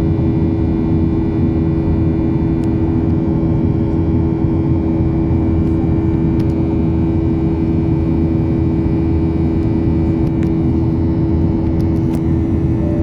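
Steady jet engine drone and airflow rush of a Ryanair Boeing 737, heard from inside the cabin, with a constant low hum and a few faint clicks.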